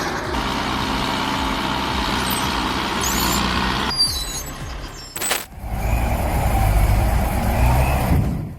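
Heavy logging vehicle's engine running steadily, with a few brief high squeaks a little past three seconds in. About four seconds in the sound changes abruptly, a sharp knock follows, and then a louder, deep engine rumble.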